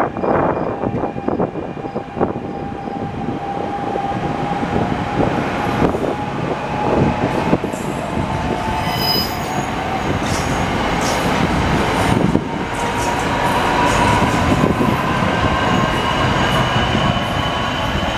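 NJ Transit Arrow III electric multiple-unit commuter train pulling away and accelerating past, with a steady rumble of wheels on the rails, scattered clicks from the track, and a faint tone that rises slowly as it picks up speed. Wind buffets the microphone.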